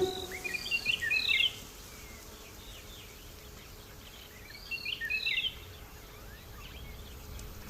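Wild birds chirping in two short flurries, one in the first second and a half and another about five seconds in, over a faint, steady outdoor hiss.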